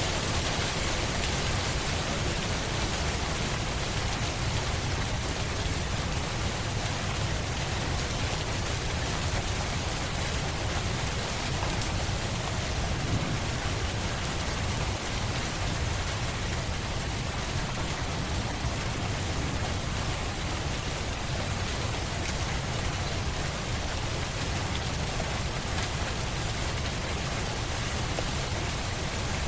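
Steady, even rainfall: a continuous hiss of rain falling on surfaces, with a low rumble underneath.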